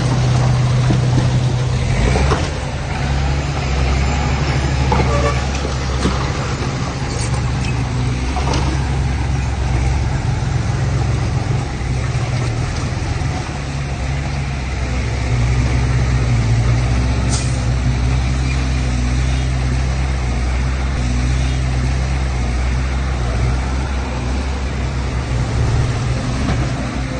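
Heavy diesel engine of earthmoving machinery running steadily under varying load, with a few brief high-pitched hisses or squeals.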